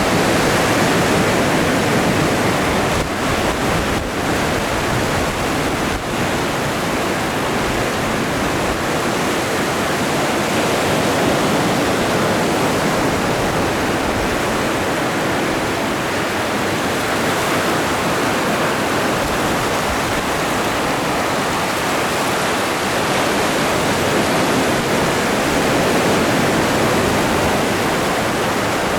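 Ocean waves breaking and washing in continuously, a dense steady wash of surf that swells a little and eases again every several seconds.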